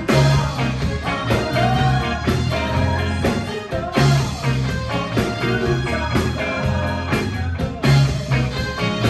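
A live band playing a rock-style groove, with bass, drums and guitar over a bass line that repeats about every four seconds.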